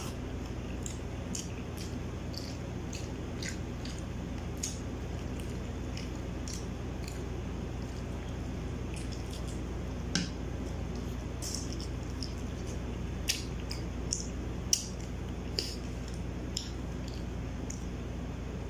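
A person eating barbecued chicken close to the microphone: wet, squishy chewing with scattered sharp smacks and clicks of the mouth, over a steady low hum.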